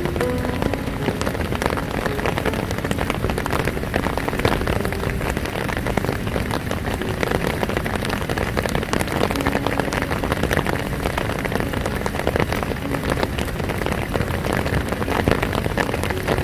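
Heavy rain pouring down steadily: a dense hiss made of countless drop impacts spattering on a surface, with no let-up.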